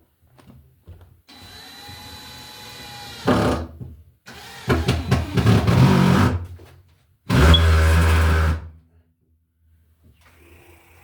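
Power drill running in three bursts of one to two seconds each, the first with a steady motor whine.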